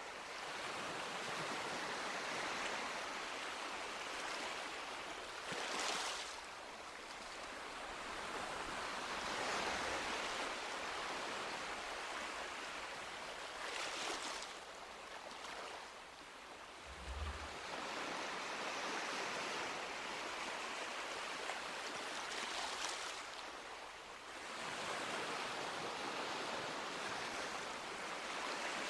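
Sea waves washing onto a beach, a steady rush that swells and falls back, with a louder break about every eight or nine seconds.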